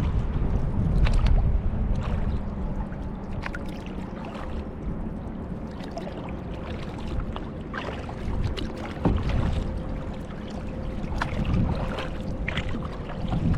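Kayak paddling on a lake: water splashing and dripping from the paddle blades and lapping at the hull in scattered small splashes, over a low rumble of wind on the microphone that is strongest in the first couple of seconds.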